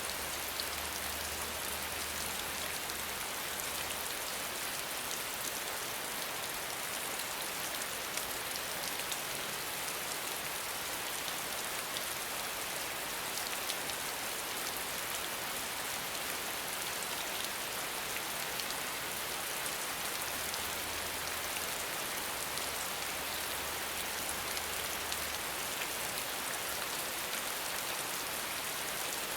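Steady rain falling, an even hiss of many small drops pattering without a break.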